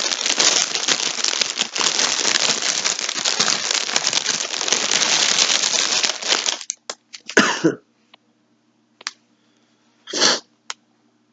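Packaging crinkling continuously as a skein of yarn is handled, stopping abruptly about two-thirds of the way in; two short sounds follow later.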